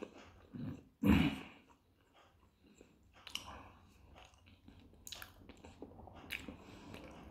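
A man chewing a mouthful of pljeskavica in a soft bread roll, with many small, irregular wet mouth clicks. A louder short sound comes about a second in.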